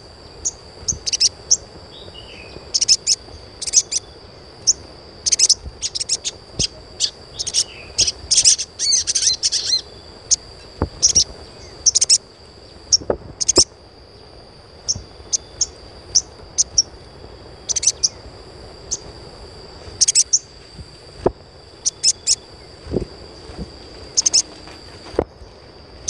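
Sogon (sogok ontong) bird chirping: short, sharp, high chirps in irregular clusters, with a rapid run of notes about eight to ten seconds in. A thin, steady high tone runs beneath the chirps.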